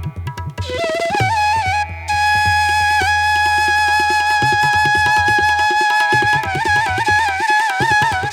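Background music: a flute playing a slow, ornamented melody over a low steady drone and hand-drum strokes. The flute holds one long note through the middle, then returns to quick wavering turns.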